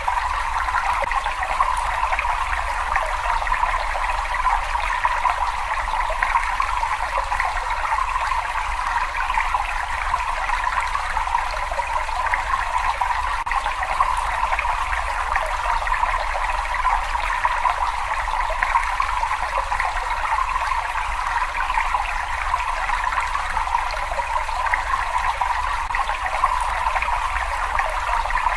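Water running and trickling steadily in a cave: an even, unbroken splashing rush with a low rumble underneath.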